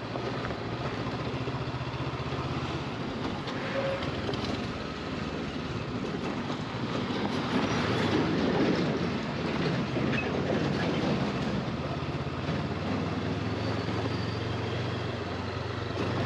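Motorcycle engine running steadily while riding, under wind and road noise with a rhythmic rattle.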